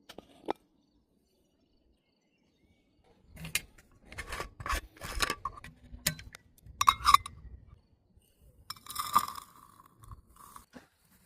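Bursts of rattling, scraping and clinking, with a single click near the start and a quiet gap before the noise begins about three seconds in.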